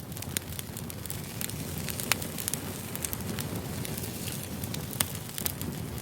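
Firewood burning: a steady low rush of flames with scattered sharp crackles and pops, the loudest about two seconds in and again near five seconds.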